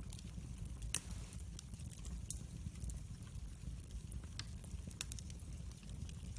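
Wood fire burning with a steady low rumble and irregular sharp crackles and pops, one louder pop about a second in.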